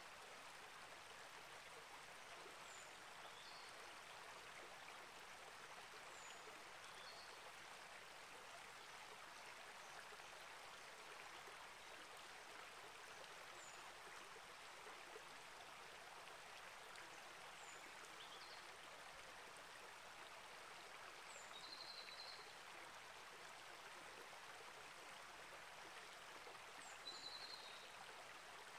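Small rainforest creek flowing steadily and softly. Faint short, high bird chirps come every few seconds, with a slightly louder bird call twice near the end.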